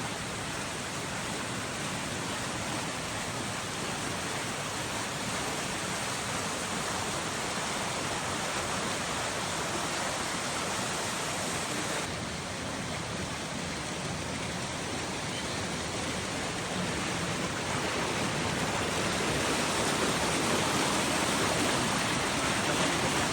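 Steady rushing of a river in flood. The texture shifts slightly about halfway through, and the sound grows a little louder toward the end.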